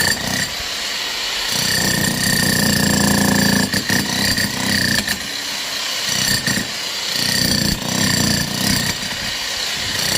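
A power tool or digging machine running with a steady high whine, working harder in stretches of a second or two.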